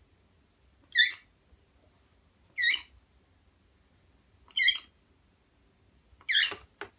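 Pet mynah giving four short, high calls about every two seconds, the little sound she makes when happy, which her owner takes to mean thank you.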